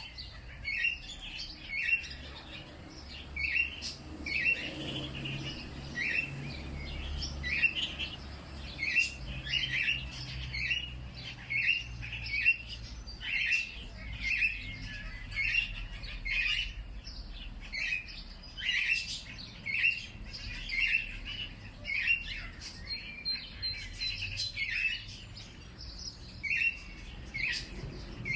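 Birds chirping: short chirps repeated about once or twice a second, over a faint low rumble.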